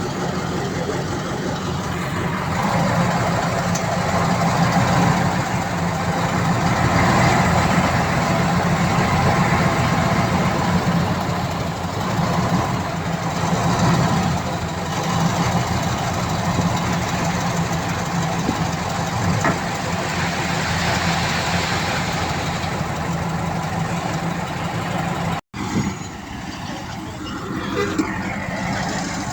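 Heavy diesel engine of earthmoving machinery running steadily. It cuts out abruptly for an instant near the end and comes back quieter.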